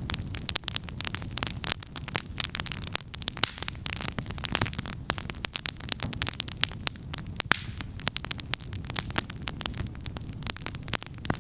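Wood campfire crackling and popping in a dense, irregular stream of sharp snaps, over a steady low rumble.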